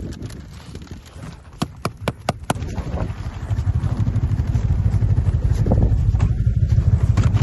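Strong wind buffeting the microphone on open lake ice, a low rumbling that gets louder and gusts rapidly from about three seconds in. A few sharp clicks come shortly before the gusting builds.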